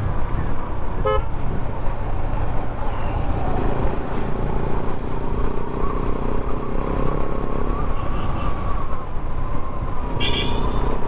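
KTM 390 Adventure's single-cylinder engine running steadily under way, with wind and road noise. A short horn beep sounds about a second in, and a longer, higher-pitched horn honk near the end.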